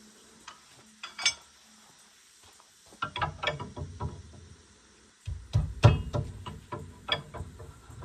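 Hand tools and metal parts clicking and clanking during repair work on a skid steer. There are a few single clicks, then two busy runs of knocks and rattles, the second and louder starting about five seconds in.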